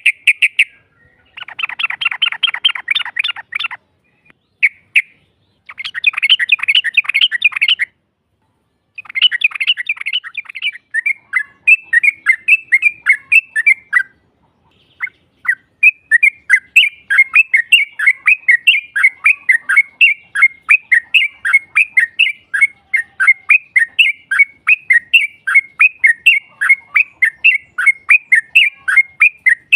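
Yellow-vented bulbul (trucukan) song: dense chattering trills in bursts of about two seconds with short gaps, then a long unbroken run of repeated downslurred notes, about three to four a second.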